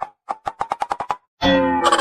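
Edited-in musical sound effects: a quick run of about ten short pops, then a loud pitched tone with rich overtones that slides gently downward.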